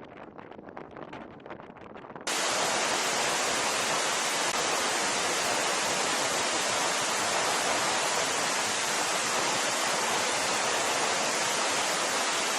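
A fainter, fluttering rush of noise, then about two seconds in an abrupt switch to a loud, steady, even hiss that holds without change.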